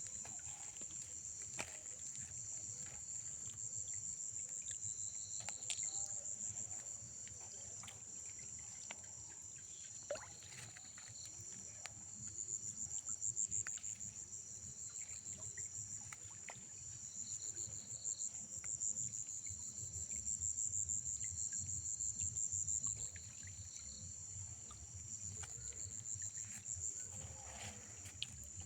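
Insects chirring in a steady high-pitched chorus, rapidly pulsing and swelling louder in stretches, with a few faint clicks.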